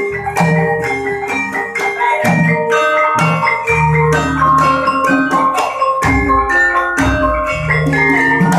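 Gamelan music: rapid struck notes from metallophones ring over deep, sustained gong tones that swell twice.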